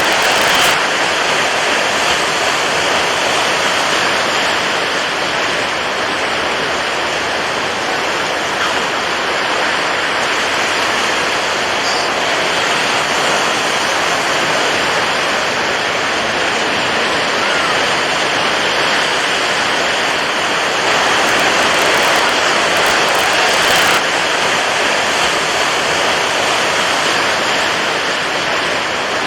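Water waves making a steady, even rush of hiss, swelling slightly louder for a few seconds near the end.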